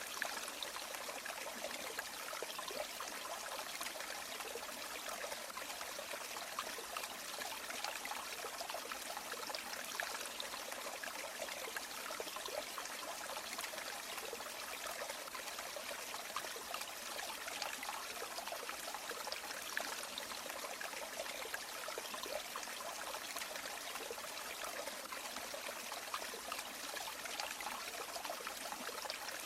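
A river or stream running steadily over stones, an even rushing hiss with constant small splashes and trickles.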